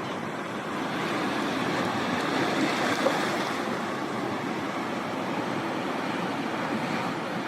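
Steady rushing noise that swells a little about two to three seconds in, with one brief louder moment around three seconds.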